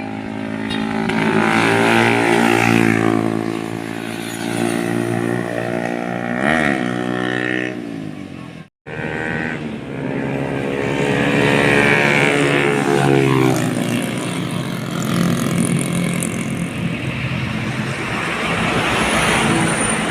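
Heavy diesel trucks driving past on a road, engines running loud with pitch rising and falling as they pass. The sound cuts out abruptly for a moment about nine seconds in, then more trucks follow.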